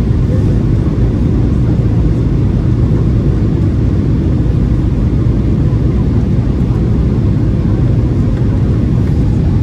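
Steady, loud low roar of an airliner's jet engines and airflow heard inside the passenger cabin during the descent to land, with a faint steady hum above it.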